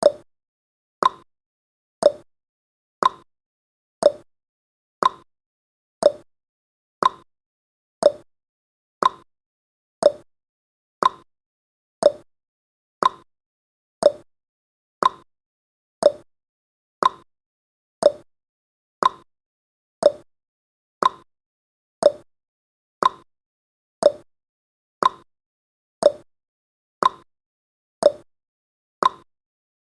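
Clock tick-tock sound effect of a countdown timer: a crisp tick once a second, alternating between a lower and a higher pitch.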